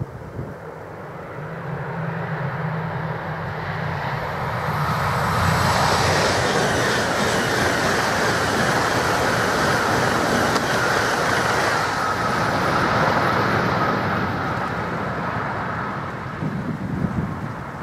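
High-speed electric passenger train passing at speed, a rush of wheel and air noise that builds, holds loud for about eight seconds as the carriages go by, then eases off. A steady high whine runs through the loudest part, and there are a few short crackles near the end.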